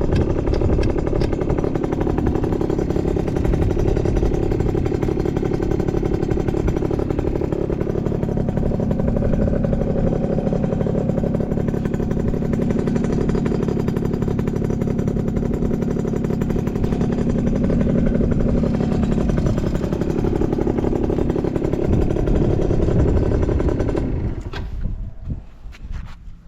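Yamaha Champ RS 50cc two-stroke scooter engine with an expansion-chamber exhaust, running steadily and then cutting off about two seconds before the end. It runs with no abnormal noise, as the seller describes it.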